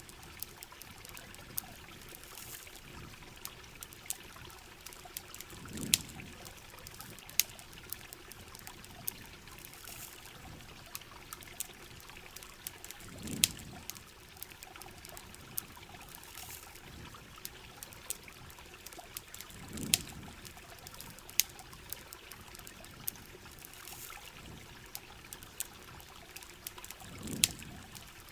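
Steady heavy rain and running water with the sharp crackles and pops of a campfire scattered through it. A low whoosh swells up and fades about every seven seconds.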